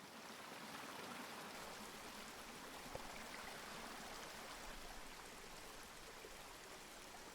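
Faint, steady rush of running water, even and without tones, with one small click about three seconds in.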